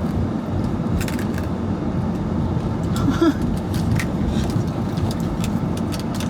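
Steady low background rumble with a few brief clicks and crinkles scattered through it.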